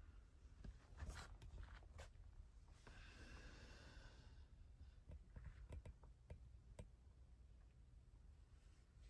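Near silence, with faint scattered clicks and a brief faint rustle about three seconds in.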